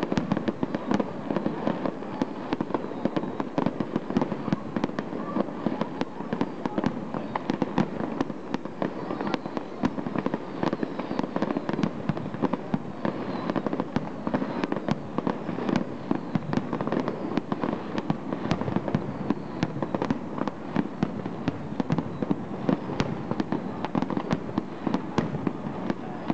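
Fireworks display: a dense, unbroken run of pops and bangs, many each second, with no let-up.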